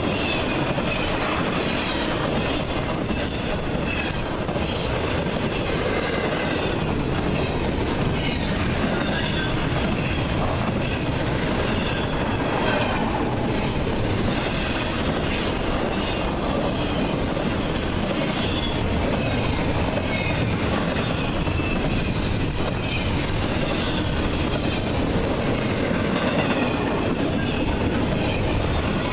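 Freight train cars rolling past steadily, wheels clacking over the rails, with recurring high-pitched wheel squeal.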